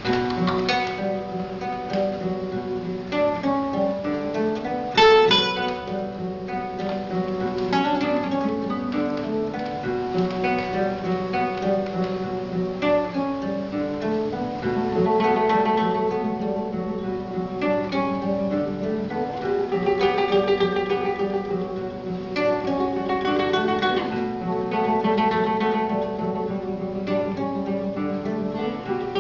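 Acoustic guitar playing an instrumental passage: plucked melody notes over sustained chords, with one loud strummed chord about five seconds in.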